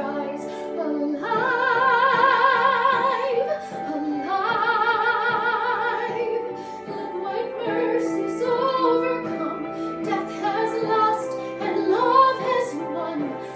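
Solo female voice singing a musical-theatre song over an accompaniment, holding long notes with a wide vibrato between shorter phrases.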